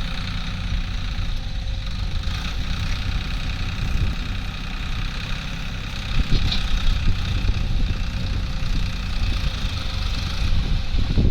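Diesel machinery engines running steadily at a soil-loading site, with a couple of brief knocks about six seconds in and near the end.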